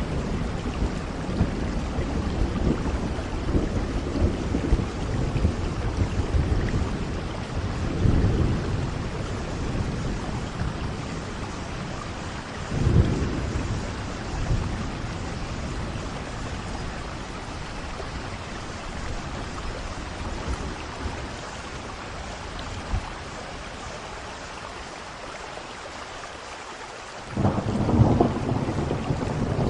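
Steady rain with rolling thunder. The rumbling swells and fades, with a sharper peal about 13 seconds in and a quieter lull after it. A loud peal breaks in suddenly near the end.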